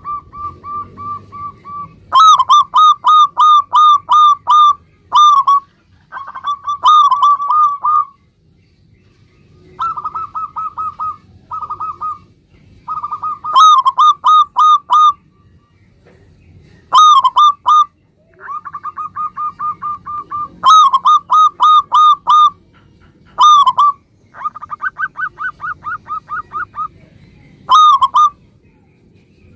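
Local zebra dove (perkutut) singing its cooing song. It gives phrases of quick, repeated hooked notes, several a second, with short pauses between the phrases.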